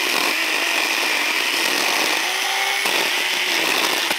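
Chainsaw running at high revs, its engine pitch sagging briefly a few times as it bites into wood.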